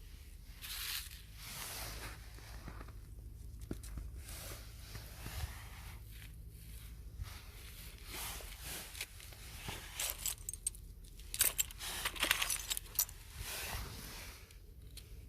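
Close-up rustling and crinkling in repeated swells, with a quick run of small clicks and jingles about ten seconds in.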